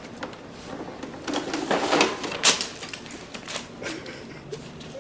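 Hard plastic toys being handled, a run of knocks, rattles and clicks with one sharp click about two and a half seconds in.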